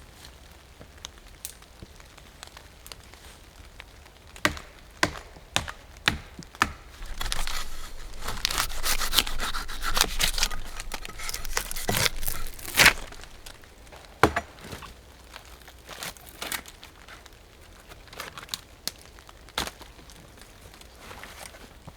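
Crinkling and rustling of something being handled for several seconds in the middle, with scattered sharp clicks and knocks before and after.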